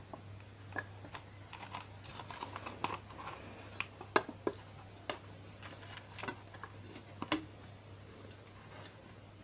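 Scattered light clicks and taps of metal ceiling-fan parts being handled and fitted together by hand, irregular, over a steady low hum.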